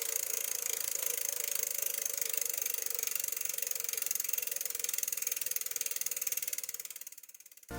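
Bicycle rear-hub freewheel ratchet ticking rapidly and steadily as the wheel turns without pedalling, fading out near the end.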